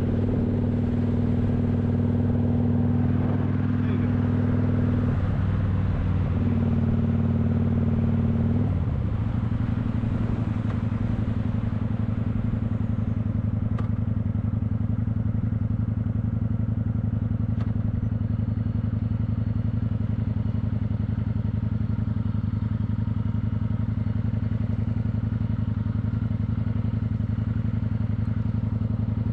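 Kawasaki motorcycle engine running while being ridden. The engine note breaks up around five seconds in and changes again near nine seconds, then holds steady.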